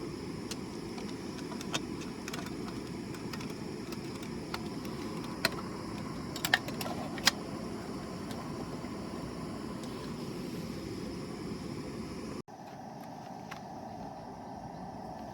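Wood fire burning steadily, with scattered sharp crackles and pops from the burning firewood. About twelve seconds in the sound cuts abruptly to a different, steady higher hiss.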